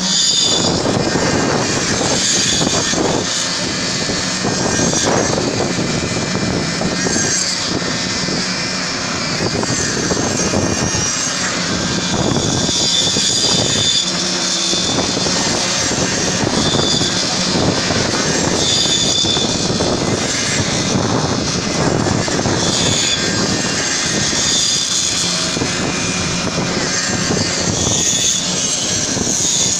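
Engine of a concrete pump running steadily under load, a continuous loud mechanical drone with a higher whine that comes and goes.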